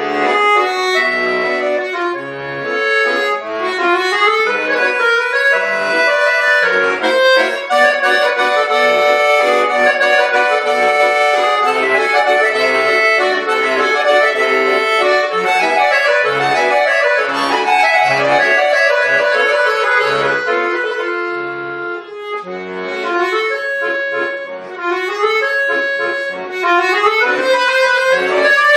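A bayan, the Russian button accordion, playing a solo piece: a melody with chords over regular bass notes. It eases off briefly about three quarters of the way through, then picks up again.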